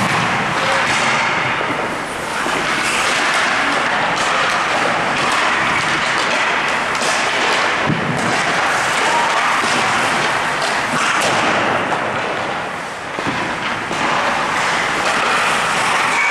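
Ice-rink practice sounds: a steady scraping hiss of skate blades on ice, broken by repeated sharp cracks of pucks struck by sticks and hitting goalie pads and boards.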